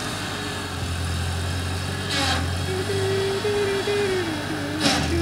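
Ford 8N tractor's four-cylinder flathead engine running steadily. A whine joins it nearly three seconds in, steps in pitch and then falls, and there are two brief clatters.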